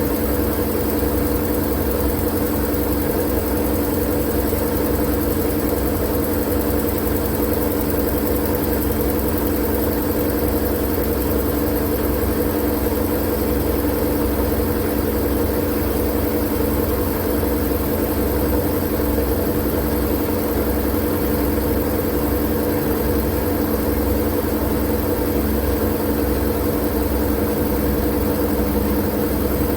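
Steady white noise for lulling a baby to sleep: an even rushing hiss over a constant low machine-like hum, never changing.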